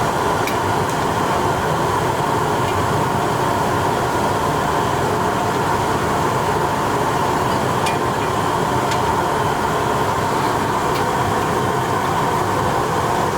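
Steady roar of commercial kitchen equipment running, with a few faint clicks and clinks.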